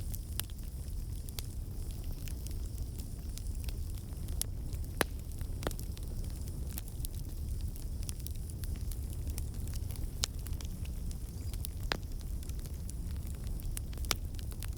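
Campfire burning, with a steady low rumble and hiss under scattered sharp crackles and pops from the burning wood.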